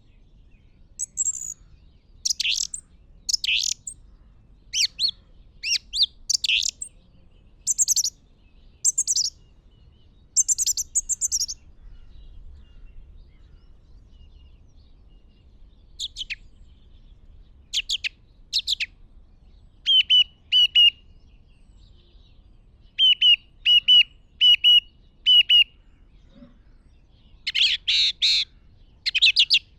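Birds chirping: clusters of short, high chirps with pauses between them. In the second half comes a run of quick, evenly repeated notes.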